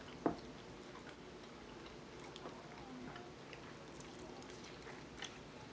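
Quiet eating sounds from chewing pork ribs: a few soft mouth clicks and smacks, the sharpest a moment after the start.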